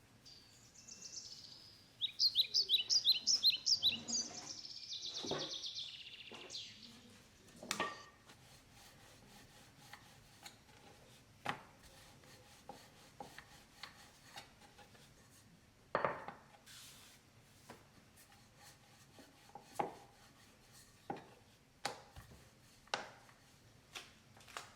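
A bird chirping in a quick run of repeated high notes for a few seconds, then scattered light knocks and clicks of kitchen utensils.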